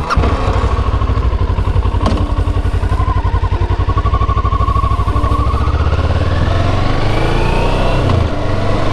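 Kawasaki ER-6n's 650 cc parallel-twin engine running through its original exhaust, heard from the rider's seat while riding. Its pitch rises in the second half as the bike accelerates.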